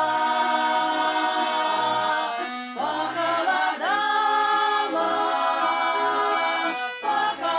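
Women's folk vocal ensemble singing a Russian folk-style song in several-part harmony, with long held notes that glide from one pitch to the next.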